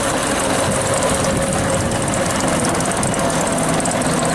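Ruston diesel locomotive's engine running steadily as the locomotive pulls in.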